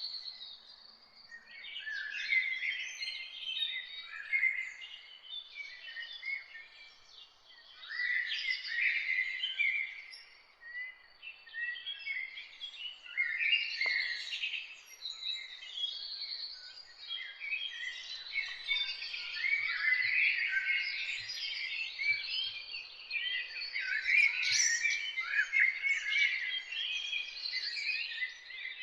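Several songbirds singing and chirping at once, a dense chorus of high, quick phrases that comes in waves with short lulls between them.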